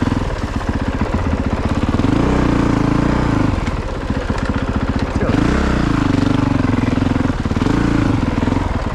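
Single-cylinder four-stroke engine of a 2022 Honda CRF450RX dirt bike running under load through muddy, deep ruts, with the throttle opened twice, about two and five seconds in, each time rising briefly in pitch before settling back.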